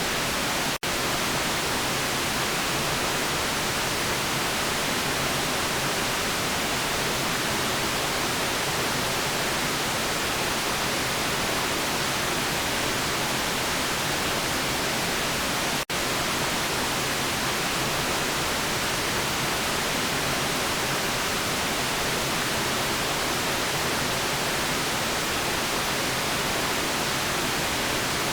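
Steady white noise: an even, unchanging hiss across all pitches, with two split-second dropouts, one about a second in and one just past halfway.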